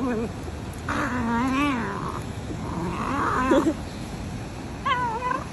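Cat yowling: several drawn-out, wavering caterwauls, the longest about a second in and another near the middle, with a shorter one near the end.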